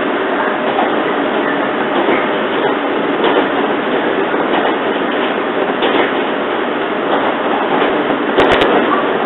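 Cabin noise of a JR 115 series electric train running at speed: a steady rumble of wheels on rail, with a few sharp clicks close together near the end.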